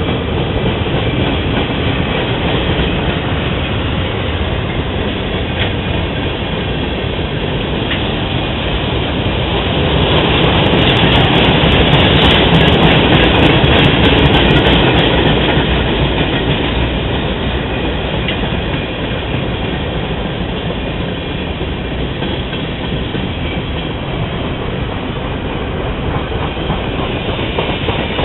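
Freight train cars rolling past, steel wheels clattering steadily over the rails. The noise swells louder for several seconds about a third of the way in, with a run of sharp clicks, then eases back.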